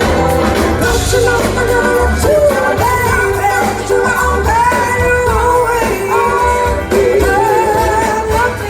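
Live band playing a soul-rock song: a lead voice singing gliding, held notes over bass, drums and guitars.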